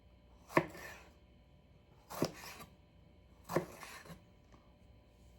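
Freshly sharpened kitchen knife slicing through a jalapeno and striking the cutting board: three sharp cuts about a second and a half apart.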